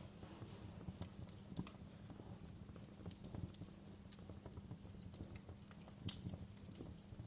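Wood fire crackling: irregular sharp pops and snaps over a steady low rumble of burning, with a louder pop about six seconds in.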